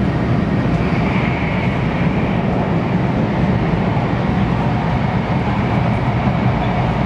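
Steady low rumble of a 500 Series Shinkansen heard from inside a passenger car as the train runs, even and unchanging throughout.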